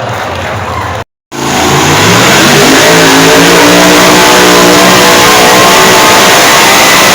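Two-wheel-drive pulling truck's engine. After a brief gap in the sound about a second in, it revs up, rising in pitch for about two seconds, then holds a loud, steady high rev under load.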